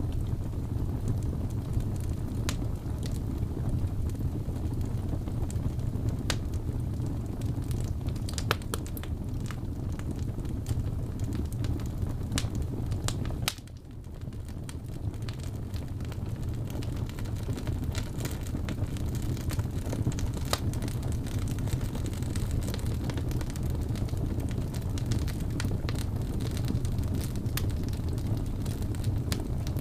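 Log fire burning in a fireplace: a steady low rumble of flames with scattered sharp crackles and pops from the wood. About halfway through the sound drops off suddenly for a moment, then builds back up.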